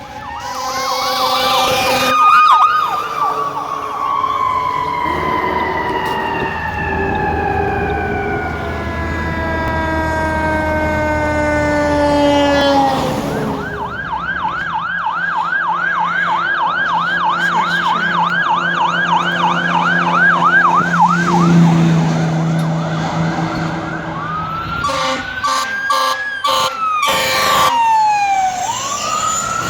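Fire truck sirens on a response. A wail rises at the start, then winds down slowly in a long falling note. After that a fast yelp runs for about seven seconds over the steady sound of the truck's engine, and near the end the wail rises and falls again amid a few sharp blasts.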